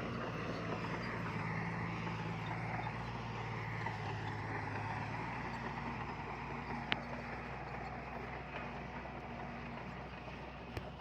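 Diesel engine of heavy earthmoving machinery running steadily, its pitch shifting about halfway through and the sound slowly fading. A single sharp click about seven seconds in.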